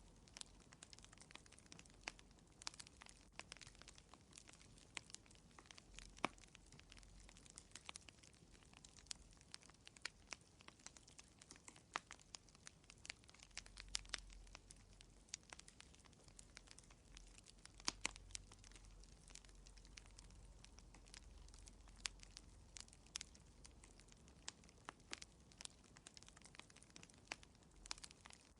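Fire in a fireplace crackling faintly, with irregular sharp pops and snaps, several a second, some louder than others, over a soft low rumble.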